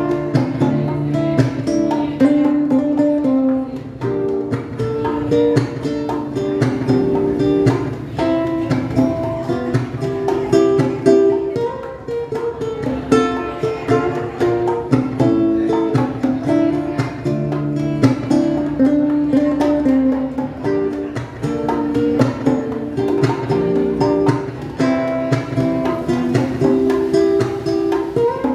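Acoustic guitar playing an instrumental passage of plucked and strummed chords, with notes ringing over one another.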